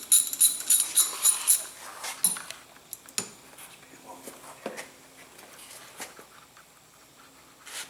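Socket ratchet clicking rapidly, about four metallic clicks a second, as a bolt is run on the engine, stopping after a second and a half; then scattered metal tool clinks and a knock.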